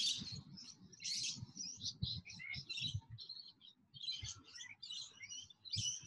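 Birds chirping: a quick run of short, high calls one after another with brief gaps.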